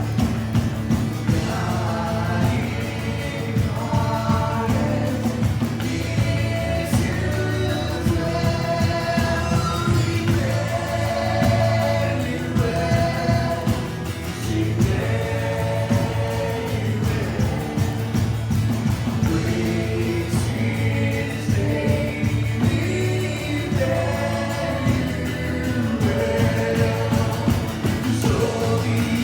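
Church worship music: several voices singing a worship song together over a steady band accompaniment.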